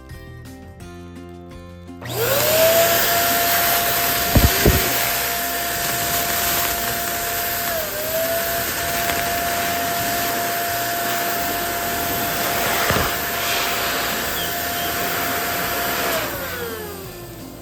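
Electric balloon pump running: its motor whine climbs to a steady pitch about two seconds in, runs with a rush of air, then winds down and stops near the end. Two sharp knocks come a couple of seconds after it starts.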